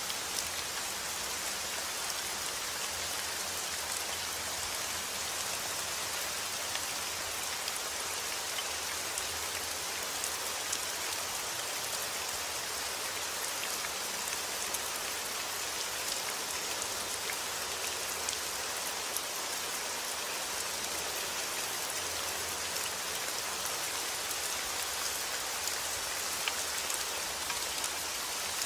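Heavy rain falling steadily outdoors, a dense hiss with many individual drops pattering on surfaces.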